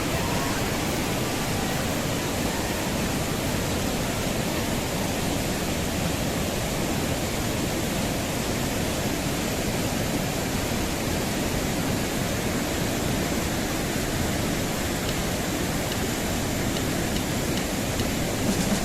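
Mountain waterfall in powerful flow: a steady, loud rush of falling water with no let-up.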